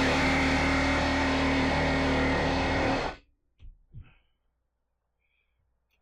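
Corded reciprocating (sabre) saw running steadily as it cuts metal, stopping abruptly about three seconds in; its blade has bent in the cut. Two short knocks follow, then quiet.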